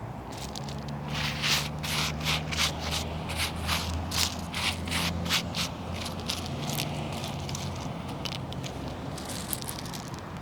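Gravel being scattered and spread by hand: a quick, irregular run of small stones crackling and scraping, thickest for the first half and returning briefly near the end, over a low steady hum.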